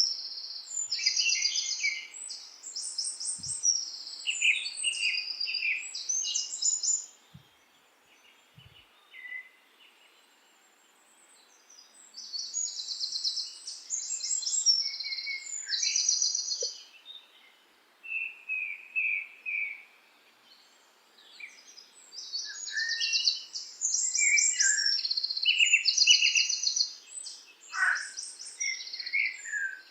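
Songbirds singing in bouts of rapid, high-pitched trilling and chirping phrases. Twice the song stops for a few seconds before starting again.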